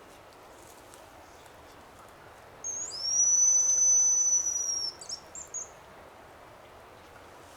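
A hazel grouse whistle call, high and thin: a short lead note, then a long held whistle of about two seconds that dips slightly at the end, then a few quick broken notes.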